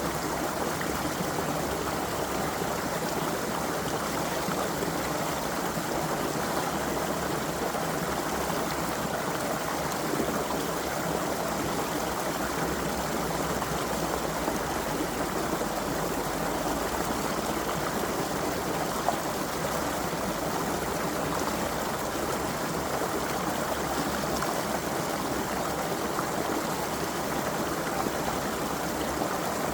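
Small creek running over rocks: a steady, even rush and burble of flowing water, with a single brief click about two-thirds of the way through.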